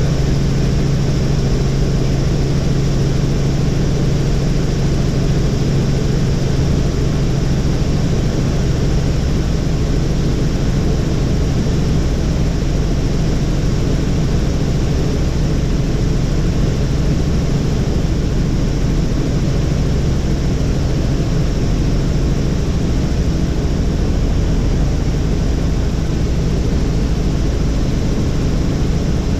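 Helicopter in flight: the steady, loud drone of the engine and rotor, with a strong low hum that eases slightly about a third of the way in.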